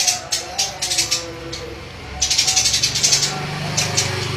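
Bird song recording: bursts of a dry, rapid rattling chatter, one short burst at the start and a longer one from about halfway on, over fainter lower notes and a low hum.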